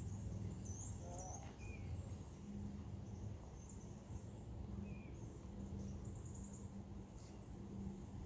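Faint outdoor ambience: scattered short bird chirps over a low, steady hum.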